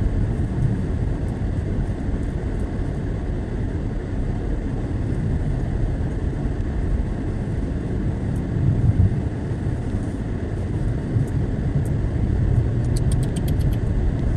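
Steady low rumble of a car driving on a snowy road, heard from inside the cabin. A short run of faint rapid ticks comes near the end.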